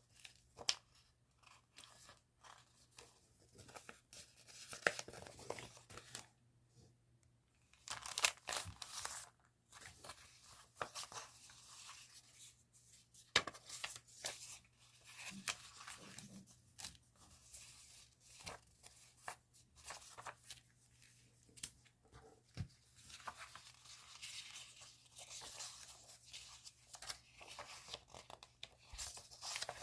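Paper and plastic stationery packaging being handled: irregular rustling, crinkling and tearing with small sharp taps.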